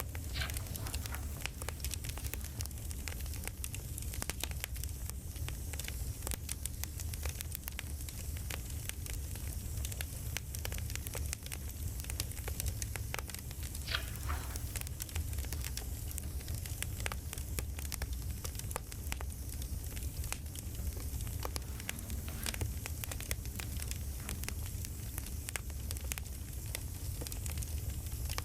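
Campfire crackling: wood popping and snapping in irregular quick clicks over a low steady rumble, with a brief falling whistle about halfway through.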